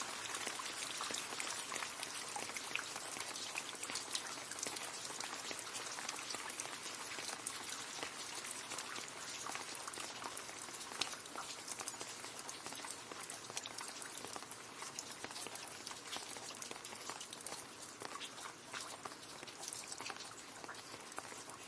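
Rain falling and splashing into a puddle: a dense, steady patter of many small drop impacts, easing slightly toward the end.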